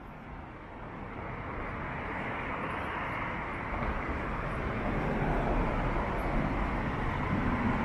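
Road traffic on a city street: a steady noise of tyres and engines that grows gradually louder.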